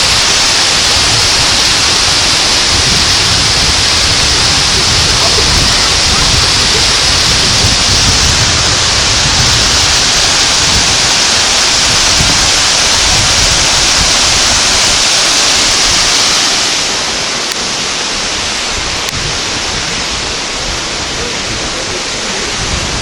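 Rushing water of a forest river's cascade, a loud steady roar that drops noticeably and loses some of its hiss about three-quarters of the way through.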